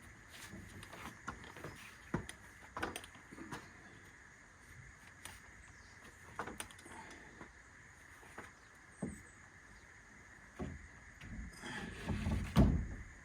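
Scattered knocks and clatter of hand work, with a louder run of thumps near the end, over a steady high hum.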